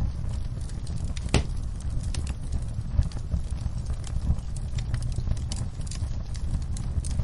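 Wood fire burning in a fireplace, with a steady low rumble and irregular sharp crackles and pops, the strongest pop about a second and a half in.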